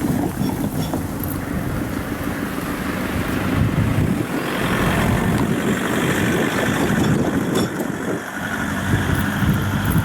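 Meitetsu electric train running past, a loud steady rumble with a higher whine coming in about four seconds in.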